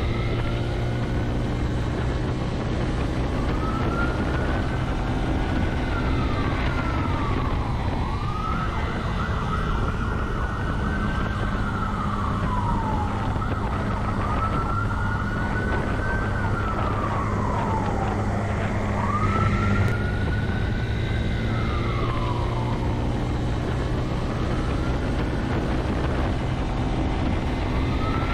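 Police car siren wailing, its pitch climbing slowly and then dropping, about once every five seconds, over the steady low drone of the pursuing patrol car.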